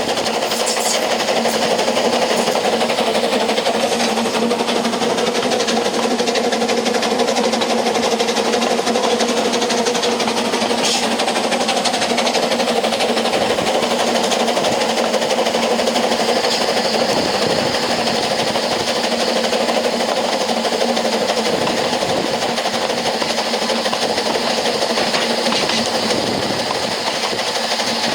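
Narrow-gauge steam train carriage running along the track, heard from the carriage: a steady rattle and rumble of the wheels on the rails under a constant hum.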